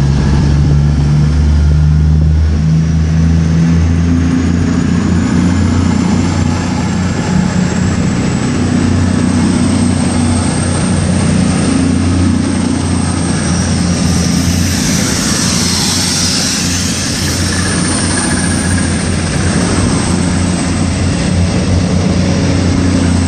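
Two coupled Class 221 Super Voyager diesel-electric trains pulling out under power, their underfloor diesel engines running steadily. A high whine rises slowly in pitch over the first half, and a rush of hiss swells and fades about two-thirds of the way through.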